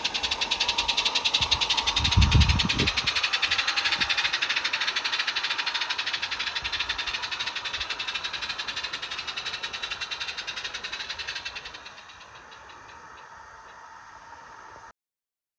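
A 16mm-scale garden model train running, with a fast, even clicking beat and a hiss that fade away as it passes, dropping off sharply near the end. There is a brief low thump about two seconds in.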